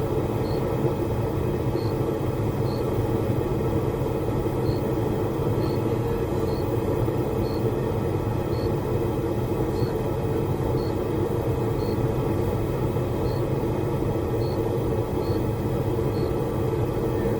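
Forge burner running steadily, a constant rumbling hiss, while a chain link heats inside toward welding heat.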